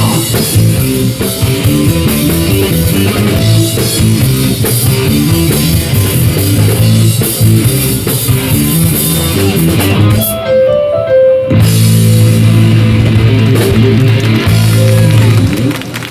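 A live rock band playing an instrumental passage with drum kit, electric guitar and bass. About ten seconds in, the drums and cymbals drop out for a moment, leaving a few held notes, then the full band comes back in.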